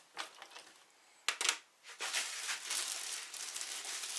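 Packaging being handled during unboxing: a couple of sharp clicks about a second and a half in, then steady crinkling of wrapping.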